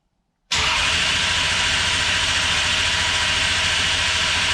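Engine being cranked over by its starter without firing, a loud, steady whirring that starts suddenly about half a second in, spinning it to build oil pressure.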